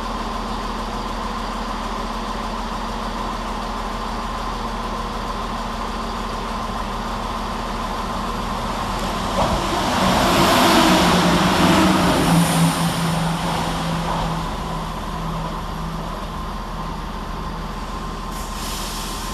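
Scotrail Class 170 Turbostar diesel multiple unit passing through the station. Its engine and wheel noise build to a peak about ten seconds in, with a steady low engine note, then fade away.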